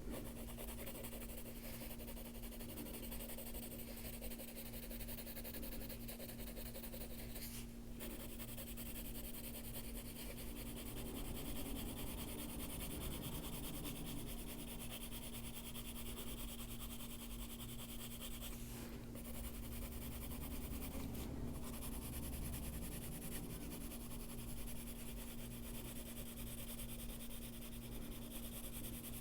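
Faber-Castell Polychromos coloured pencil scratching on the paper of a colouring-book page, over a steady low hum.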